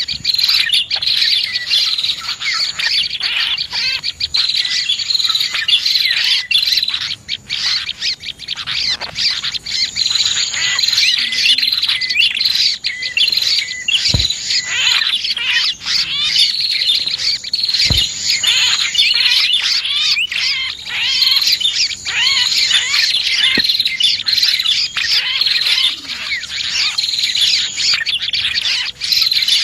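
Dense chorus of small songbirds chirping and twittering over one another without a break, a bird-lure recording of prenjak (prinia) calls mixed with other small birds. Two sharp clicks about halfway through.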